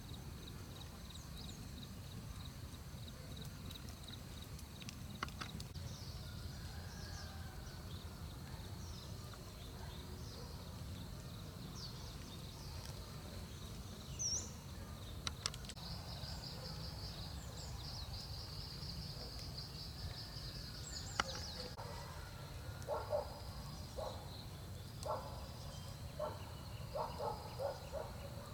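Mountain forest ambience: birds chirping, one giving a rapid high trill for several seconds midway, over a steady low rumble. Near the end comes a run of short, separate knocks or calls.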